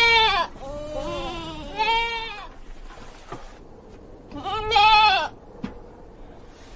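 A farm animal bleating in several separate wavering calls: one ending about half a second in, a lower call just after, another about two seconds in, and a loud one about five seconds in.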